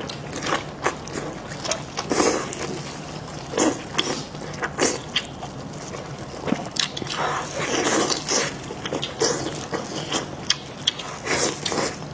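Close-up eating sounds: wet, slurping chewing and smacking of seafood, with irregular sharp clicks of shells being cracked or bitten.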